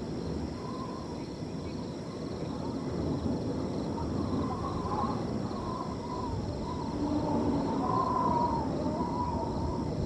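Wind blowing across a field, with crickets trilling steadily in the background. A series of short, wavering animal calls repeats over it, most prominently from the middle of the stretch onward.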